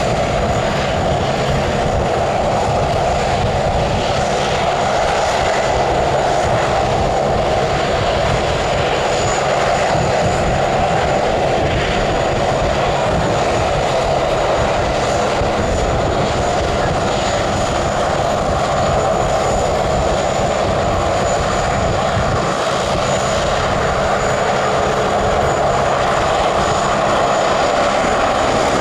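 Airliner engines running steadily, a continuous loud rush with a faint high whine held throughout.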